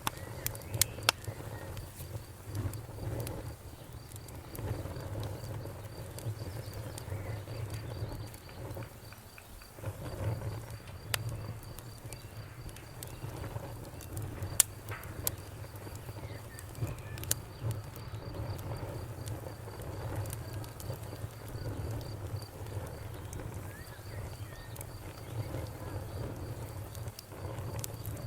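Wood fire burning with a low rumble of flames and irregular crackles and sharp pops, one louder pop about halfway through. A faint, high, rapidly pulsing trill runs behind it most of the time.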